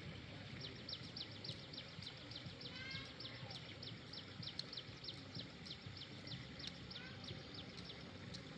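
A small bird calling a fast, even run of short high notes, about four a second, for roughly seven seconds, with a few other brief chirps in the middle and near the end. Under it is a steady low background rumble.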